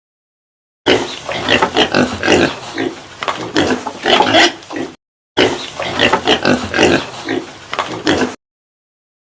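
Pig oinking in quick short calls, in two runs of about four and three seconds with a brief break between.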